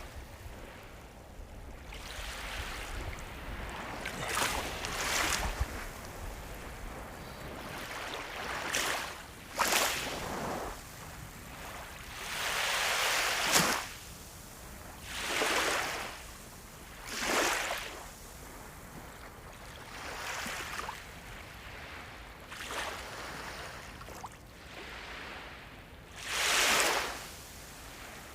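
Sea waves breaking and washing on a shore in repeated surges every few seconds, each swelling and fading within a second or two, over a steady low rumble of the sea.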